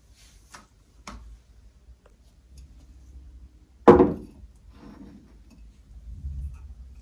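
Two light clicks, then one loud, sharp knock about four seconds in with a short ringing decay, followed by softer knocks and rustles.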